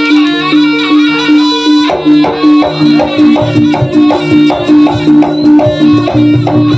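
Live Javanese jaranan ensemble music: a reedy wind melody over a steady, quick beat of drums and repeating gong-chime notes.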